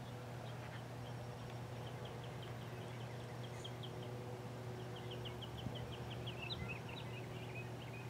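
Quiet outdoor ambience: a bird chirping in quick runs of short high notes, strongest in the second half, over a steady low hum.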